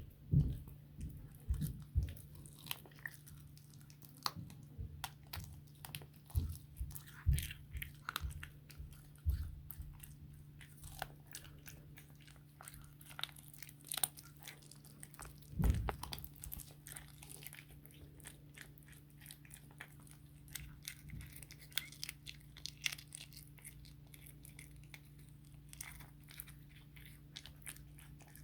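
Cat chewing and crunching on a raw chicken back, its teeth cracking the bones in quick irregular bites, with a few louder knocks. A steady low hum runs underneath.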